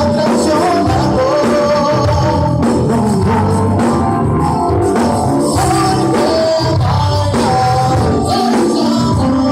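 Live band playing loud Latin pop-rock with a steady beat, a singing voice heard at times.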